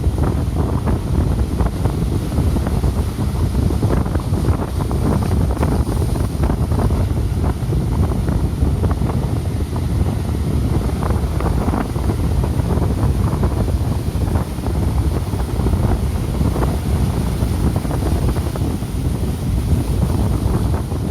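Strong gusting wind buffeting the microphone over the continuous rumble of heavy storm surf as a typhoon approaches.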